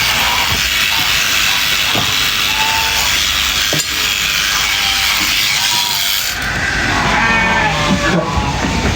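Sheep bleating, with the calls loudest in the last couple of seconds, over a steady background noise.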